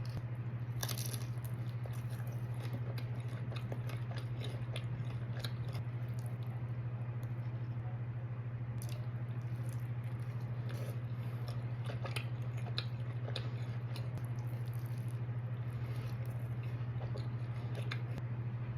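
Close-miked chewing and biting of pepperoni pizza, with scattered small crunches and mouth clicks, over a steady low hum.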